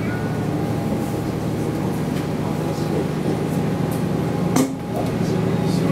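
Diesel railcar running, heard from inside the cabin: a steady engine hum, with one sharp knock about four and a half seconds in.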